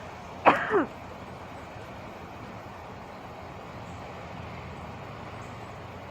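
Truck engine idling as a steady low rumble. About half a second in, one short loud sound falls steeply in pitch.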